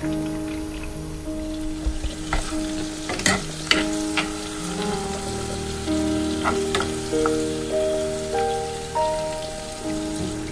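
Palm-oil soup base with pieces of fish sizzling in a pot, with a few sharp clicks of a spoon against the pot, over soft background music with a slow melody.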